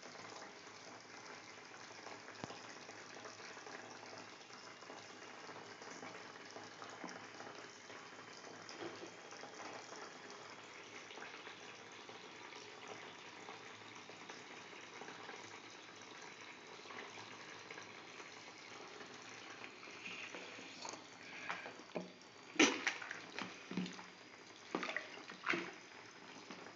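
Water running steadily from a tap into a bathtub or basin, with a faint tone rising slowly as it fills. In the last few seconds come several sharper knocks and splashes, the loudest about 22 seconds in.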